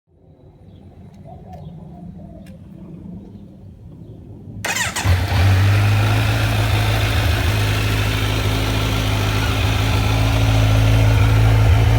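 Kawasaki Z900 inline-four, breathing through Arrow racing headers and an SC Project S1 slip-on with its baffle fitted, started up: after a few seconds of low rumble the starter catches suddenly about halfway in and the engine settles straight into a steady, deep idle.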